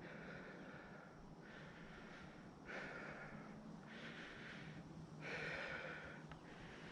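A person breathing hard and fast into the microphone, about five deep breaths in a steady rhythm. They are out of breath from exertion and recovering.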